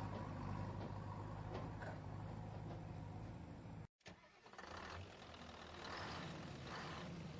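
Remote-control toy JCB's small electric motors running with a steady hum. About four seconds in the sound cuts out for an instant, then the motors whir again unevenly, rising and falling several times.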